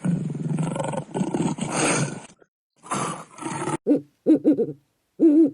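Two long, rough calls from a large animal, then owl hooting: a quick run of short hoots followed by two longer ones near the end.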